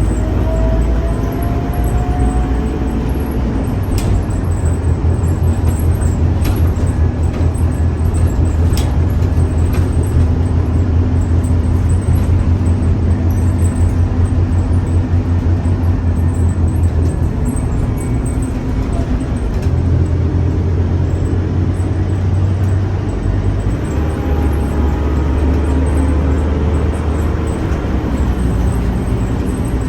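Scania K310UA city bus's diesel engine running under load, a steady low rumble that drops back and picks up again partway through. A short rising whine comes near the start.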